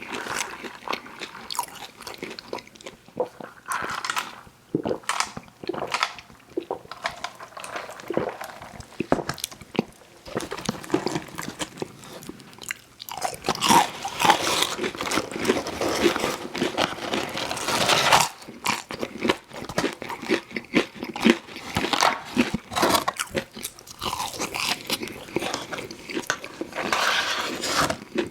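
Crunching bites and chewing of crispy fried fast food, a dense run of irregular crackling clicks that grows louder and busier from about halfway.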